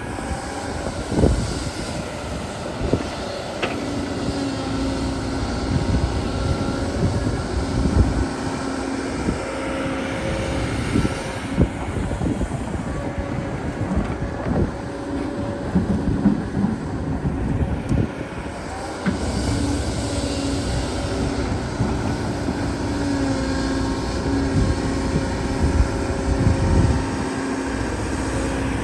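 Excavator's diesel engine running steadily under load, with irregular knocks and clunks scattered over it.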